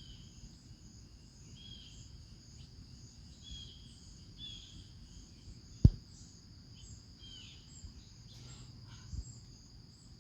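Outdoor nature ambience: a steady high-pitched insect trill, with short bird chirps scattered through it and a low rumble underneath. One sharp knock comes about six seconds in.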